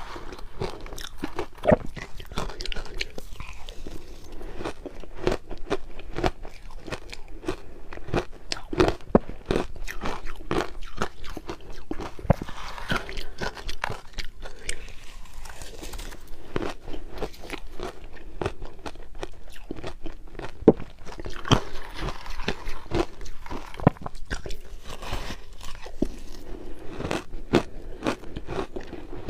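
Close-up crunching of crushed ice being bitten and chewed, a dense run of irregular crackles and crunches with no pauses.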